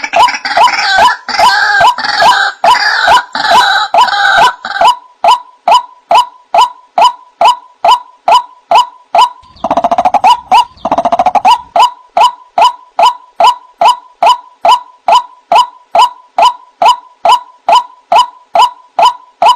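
White-breasted waterhen (ruak-ruak) calling over and over in a steady 'wak-wak' about twice a second. Harsher croaking sounds are mixed in during the first few seconds and again about halfway through.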